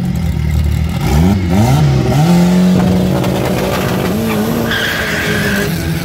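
Drag-race car engine revving in quick rising and falling blips, then holding a steady high rev. A high-pitched squeal comes in for about a second near the end.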